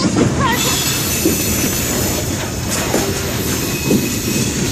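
Long freight train rolling slowly past close by: a steady rumble and clatter of steel wheels on the rails, with some wheel squeal.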